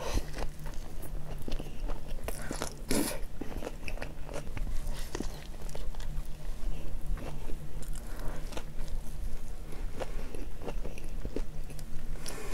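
Biting into and chewing a deep-fried, batter-coated Korean hot dog, with crisp crunches and wet mouth clicks throughout. The loudest crunch comes about three seconds in.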